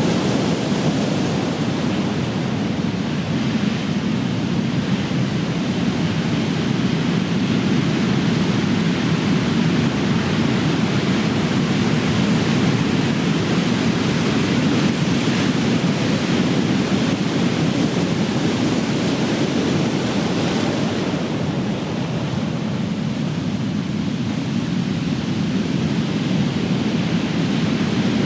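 Ocean surf: big waves breaking and washing in a continuous deep rush, swelling and easing slowly.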